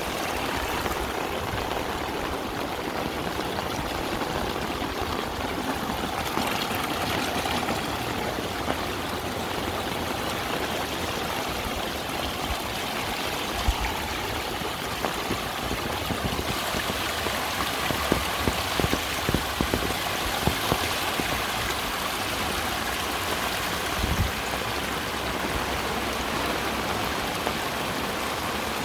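Heavy rain pouring steadily, a dense even rush of water with a few sharper taps now and then.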